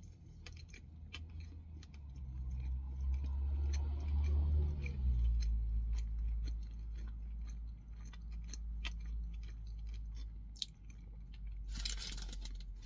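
Close-up chewing and small wet mouth clicks of someone eating a burger with onion rings on it, with a short rustling rub near the end.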